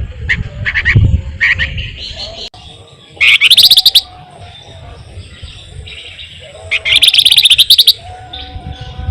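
A flamboyan songbird singing: a few short chirps, then two loud rolling trills of rapidly repeated high notes, each about a second long and about three and a half seconds apart.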